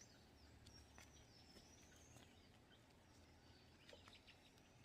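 Near silence with faint high bird chirps and a thin drawn-out whistle in the background, and a few faint clicks.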